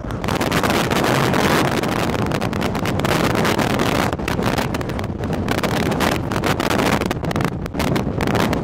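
Strong wind buffeting the microphone: a loud rush of noise that swells and dips with the gusts.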